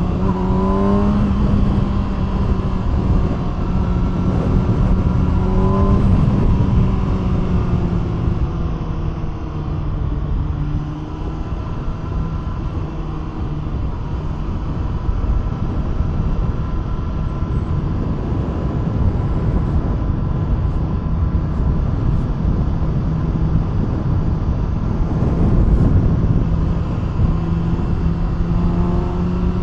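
Kawasaki ZX-6R's inline-four running through an SC Projekt aftermarket exhaust while riding. The revs climb near the start and again a few seconds later, ease off and hold steady for a long stretch, then climb again near the end, over a steady rush of wind.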